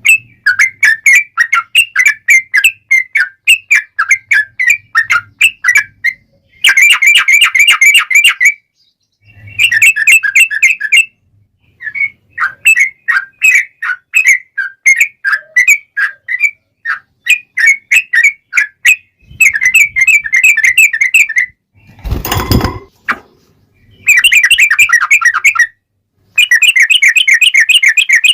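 Yellow-vented bulbul (trucukan) singing loudly: strings of quick bubbly chirps broken by bursts of long, fast rolling trills, with short pauses between phrases. A brief rush of noise cuts in about three-quarters of the way through.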